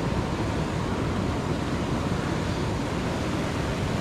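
Steady rush of a rain-swollen waterfall and river current pouring over rocks.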